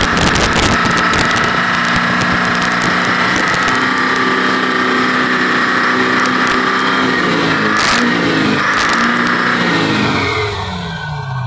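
Detroit Diesel engine of a Chevrolet truck running loudly through its exhaust, its pitch shifting up and down a few times in the later part. The sound changes and drops near the end.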